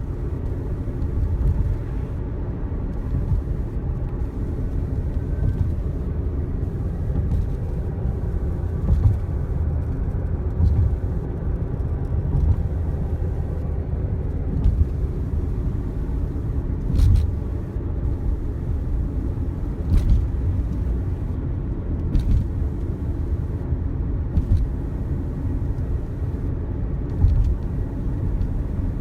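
Car driving at road speed: steady low road and wind rumble, with a few brief knocks partway through.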